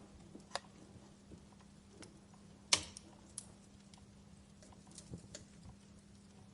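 Wood fire crackling in a fireplace: scattered sharp pops and snaps, one louder pop a little before the middle.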